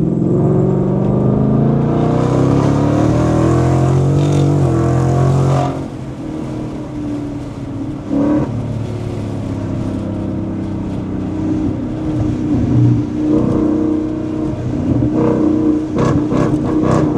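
Ford Mustang GT's 5.0 V8 running through a newly fitted full MBRP exhaust. Engine speed is held up for about the first six seconds, then drops back, and the engine keeps running at a lower, varying pitch.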